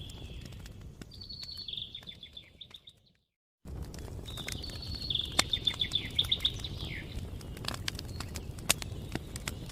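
A campfire crackling with scattered sharp pops over a low steady rumble, while a songbird sings fast trilled phrases, twice. The sound fades out to dead silence about three seconds in and returns half a second later.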